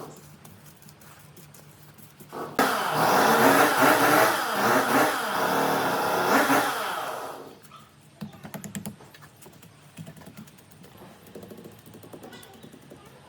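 An electric power tool starts up abruptly and runs for about five seconds, its pitch wavering as it works, then stops; light tapping and clicking follow.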